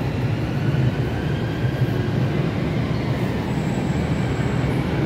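London Underground Jubilee line train running, a steady rumble with a faint higher whine.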